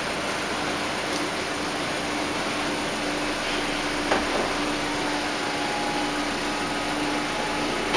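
Volkswagen Eos retractable hardtop closing: the roof's hydraulic pump hums steadily, with a click a little past halfway and a faint higher whine joining about five seconds in.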